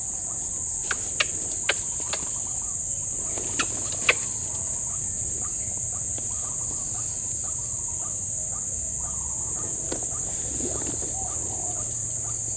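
Steady high-pitched insect chorus with faint, fowl-like white-breasted waterhen calls underneath, the calls growing a little stronger near the end. A few sharp clicks sound in the first four seconds.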